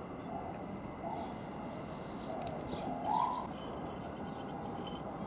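A few short bird calls over steady outdoor background noise, the loudest about three seconds in.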